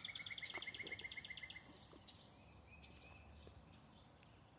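A songbird trilling: a fast, even series of short notes at about ten a second that stops about a second and a half in, followed by faint scattered chirps from other birds.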